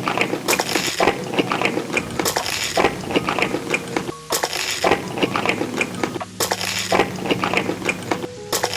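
Cutlery clinking and scraping against a dish, many sharp clinks in a row.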